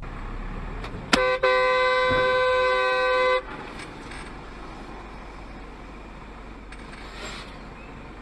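Car horn sounding: a brief toot about a second in, then one steady blast of about two seconds, over traffic noise.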